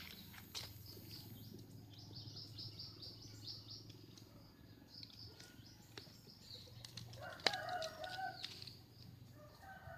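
Birds chirping in quick runs of high notes over a steady low hum. A sharp click comes about seven and a half seconds in, followed by a short lower call.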